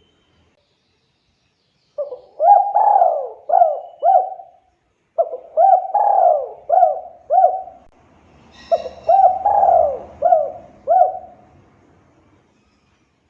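Spotted dove (tekukur) cooing: three phrases, each of about five rhythmic coos, with short gaps between them. A brief faint high chirp comes in near the start of the third phrase.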